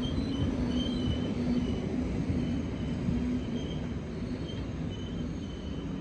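A train running on the track: a steady rumble with short, intermittent high squealing tones from the wheels on the rails.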